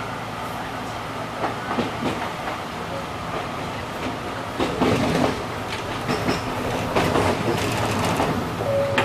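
Enshu Railway 2000-series electric train running, heard from inside the cab: steady running noise with wheels clicking and knocking over the track, louder from about halfway through.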